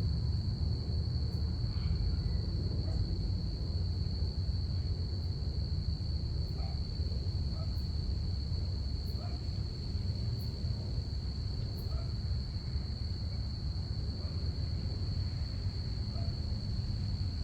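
Crickets trilling in one steady, unbroken high tone, over a low steady rumble. A few faint short calls come through now and then.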